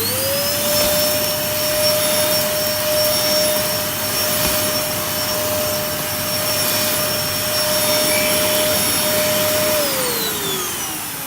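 Hoover Dustmanager upright vacuum cleaner running: its motor whine settles at speed just after start-up, holds steady over a rush of airflow, then falls away as the motor spins down after switch-off near the end. The motor runs alright, but its drive belt is worn out.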